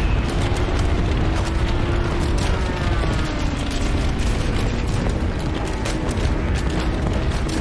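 Sound-effect ambience of a wooden ship: creaking and clicking over a steady low rumble.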